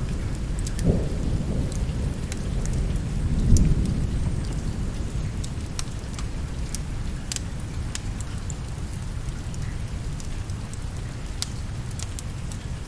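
Steady rain with low rolling thunder that swells about a second in and most strongly about three and a half seconds in, then dies away, with scattered sharp ticks.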